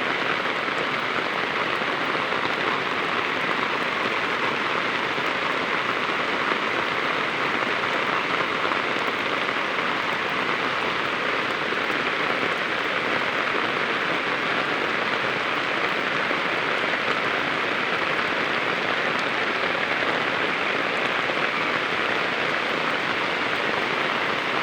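Steady rain falling and pattering on a surface, a constant even hiss without let-up.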